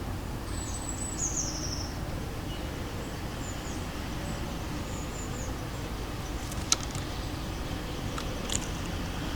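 Small garden songbirds giving short, high chirps over a steady low rumble of distant city traffic, with two sharp clicks in the second half.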